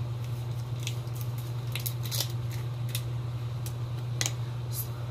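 Chicken and vegetable stir fry crackling in a hot cast iron skillet as honey garlic sauce is poured in, with irregular sharp pops over a steady low hum.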